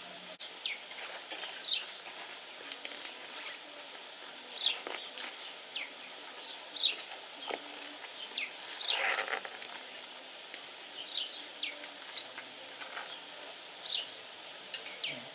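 Small birds chirping: many short, quick, falling chirps at irregular intervals, with a denser rustling sweep about nine seconds in.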